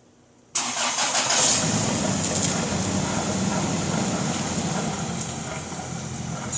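Toyota Land Cruiser Prado engine starting after being flooded with water: it fires suddenly about half a second in, runs fast and loud for a second or two, then settles to a steady idle.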